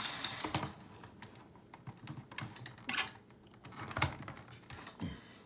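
Irregular plastic clicks and knocks of a Hot Wheels Track Builder launcher and track pieces being handled, with sharper clacks about three and four seconds in.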